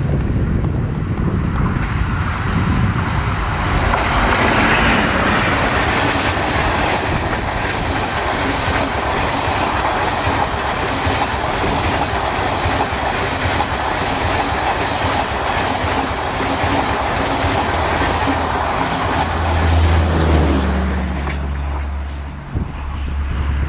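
A train passing at speed, its wheels rumbling and clattering on the track, with a low steady drone coming in near the end.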